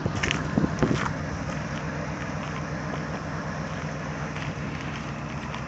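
1973 Pontiac Catalina's V8 idling steadily through its dual exhaust, with a few light knocks in the first second.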